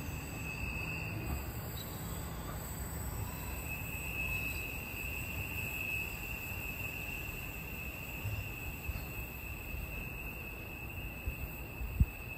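Distant train fading away down the line: a low rumble under a faint, steady high-pitched squeal from the wheels on the rails. A single sharp click near the end is the loudest sound.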